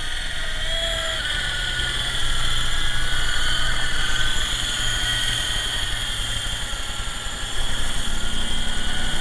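Small electric RC helicopter (MJX T640) running, its motors and rotor giving a steady high-pitched whir with a low hum underneath; the level steps up about two seconds in and again near the end.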